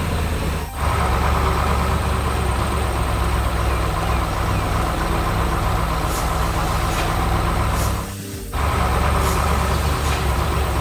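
Heavy vehicle's diesel engine running steadily, dropping out briefly just under a second in and again for about half a second around eight seconds in.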